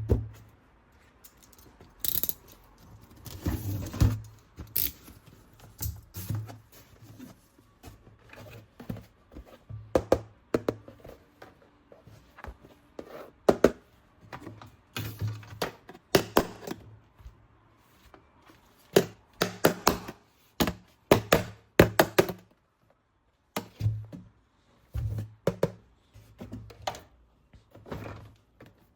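Plastic toy parts and packaging being handled and set down on a table: irregular clicks, knocks and thunks, some sharp and some dull.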